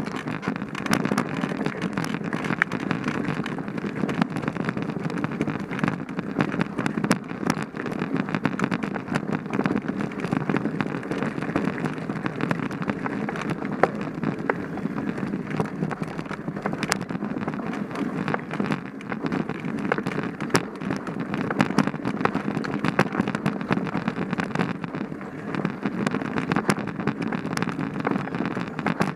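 Mountain bike rolling fast over a rough dirt trail: a steady crunching and rattling from the tyres and frame, dotted with many small sharp clicks and knocks.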